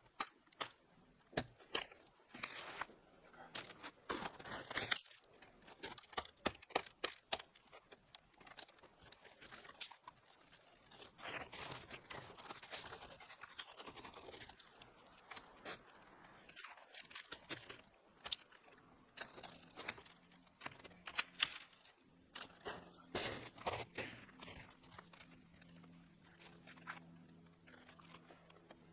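Irregular crunching, rustling and sharp little clicks of things being handled close to the microphone, with a faint low hum coming in near the end.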